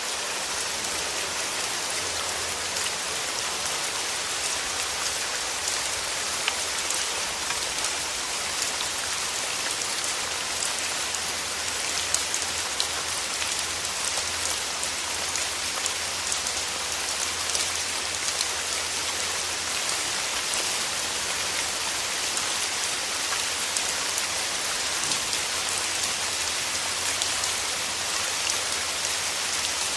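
Steady rain falling, with many small individual drop ticks through an even hiss.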